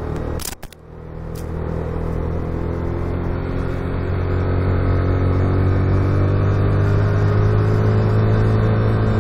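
Motorcycle engine running under load, heard over wind on the rider's camera. About half a second in the sound briefly drops away with a couple of sharp clicks. It then picks up again and grows steadily louder, holding a steady pitch.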